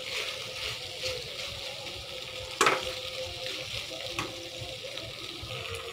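Flat beans in mustard paste sizzling in a kadai, a steady frying hiss. There is a sharp knock about two and a half seconds in and a softer one about a second and a half later.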